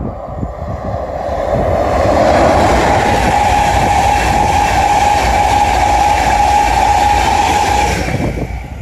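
High-speed express passenger train passing close at speed on electrified main line track. The rush of the train swells as it approaches, then holds steady as the coaches go by, with a steady high whine and a rapid clicking of wheels on rail, easing off near the end.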